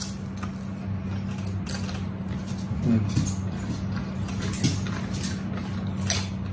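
Close-up eating sounds of people chewing a sub sandwich and chips, with wet mouth clicks and smacks scattered throughout. A steady low hum runs underneath.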